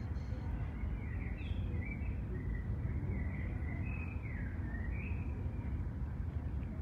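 Birds chirping in a run of short notes that slide up and down, over a steady low background rumble.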